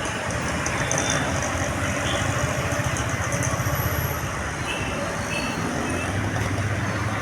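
Steady low rumble of a vehicle in motion, with general traffic noise.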